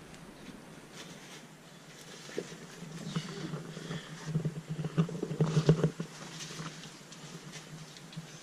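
Irregular rustling, scuffing and small knocks of people moving over leaf litter and rock, busiest between about three and six seconds in.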